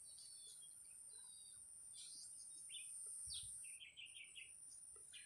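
Near silence with faint bird chirps: a few short high notes about two seconds in, then a quick run of chirps around three and a half seconds, over a faint steady high hiss.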